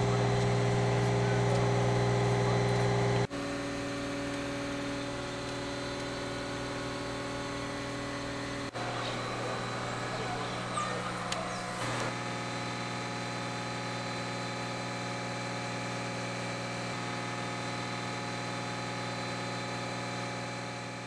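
Mobile crane's diesel engine running steadily under load, a low, even hum that changes abruptly in level and pitch a few times. A few faint clicks come near the middle.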